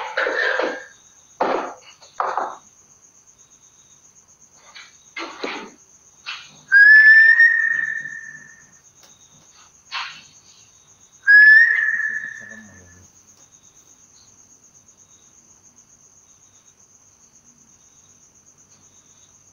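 Two long whistled notes, each about two seconds, rising briefly and then held and fading, about five seconds apart. Under them a cricket chirps steadily.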